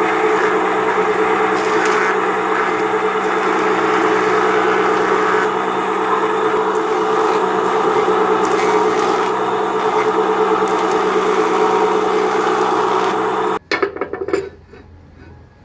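Electric power tool running steadily on pine wood, with a constant motor hum under the noise of the cut. It stops abruptly near the end, followed by a few light knocks.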